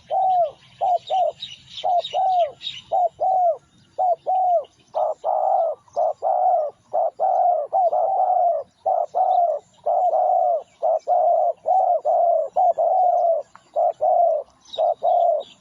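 Spotted dove cooing in a fast, continuous series of short arched coos, the excited 'thúc gù' cooing used as a lure to provoke wild doves. About five seconds in, the coos turn longer and follow one another more closely. Small birds chirp at the start and again near the end.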